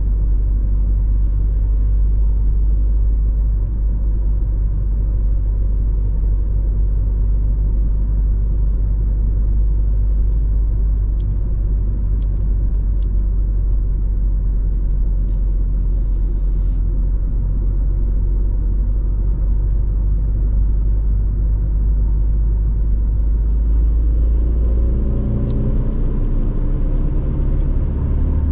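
Audi A4 B6 1.9 TDI 130 hp four-cylinder turbodiesel heard from inside the cabin while driving: a steady low engine and road rumble. Near the end the engine note climbs as the car accelerates.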